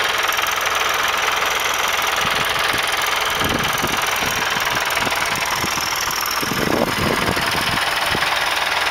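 Mahindra tractor's diesel engine running steadily, with heavier low rumbles about three and a half seconds in and again around seven seconds.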